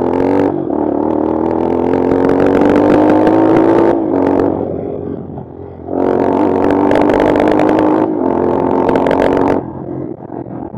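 Bashan Brozz 250 dual-sport motorcycle engine under hard throttle, its revs climbing steadily for about four seconds. It eases off, then pulls hard again for about three and a half seconds before dropping back near the end.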